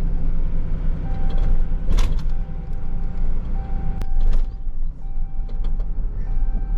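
Tow truck's engine running with a steady low rumble while driving. A thin steady electronic beep tone sounds in long stretches with short breaks from about a second in, and a few sharp knocks or rattles come through.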